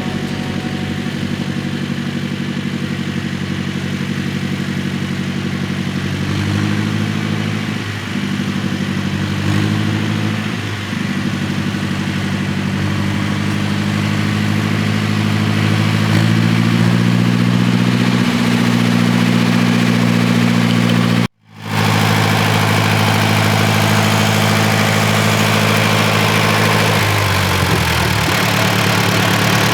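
Tractor engine running, its speed shifting up and down a few times, with an abrupt break partway through.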